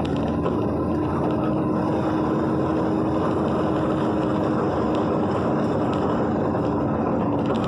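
A car travelling on the road: steady engine and tyre noise with a held drone, and a few light ticks scattered through it.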